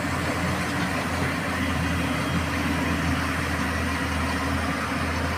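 Truck engine running steadily at idle, a constant low hum.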